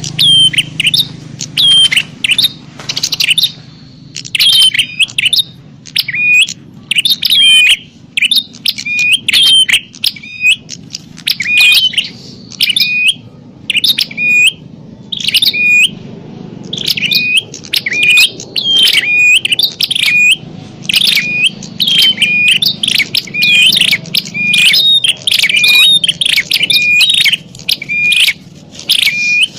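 Prinias (prenjak) giving a noisy, rapid run of sharp, repeated chirps, several a second: the agitated calling of birds fighting, used as a lure call for wild prinias.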